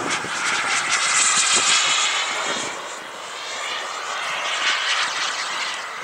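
Turbine engine of a radio-controlled scale Rafale jet whining as it flies its display. It is loudest a second or two in, eases off around three seconds and swells again as it comes back round.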